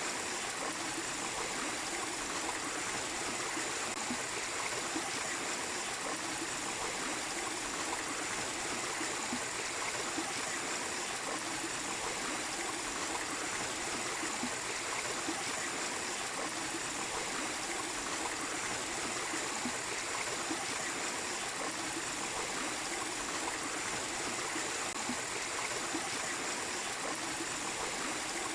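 Small waterfall splashing and rushing steadily into a stream, an even, unbroken water noise.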